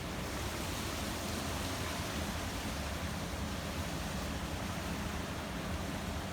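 Steady outdoor background noise: an even rushing hiss with a low hum underneath.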